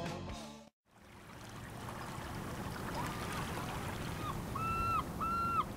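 Rock backing music fades out, and after a short gap comes a steady wash of water. About halfway in, a bird starts a series of short, even calls, each about half a second long, repeating quicker and louder toward the end.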